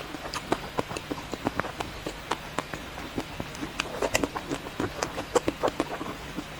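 Close-miked eating of chocolate ice cream: a busy, irregular run of crisp clicks, crunches and wet mouth sounds, several a second.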